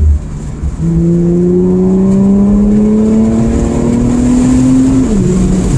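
Infiniti Q50's engine pulling hard under acceleration, heard from inside the cabin with the window cracked: the exhaust note climbs steadily for about four seconds, then drops sharply at an upshift near the end. The car runs a Rev9 midsection and PLM axle-back exhaust with no resonators.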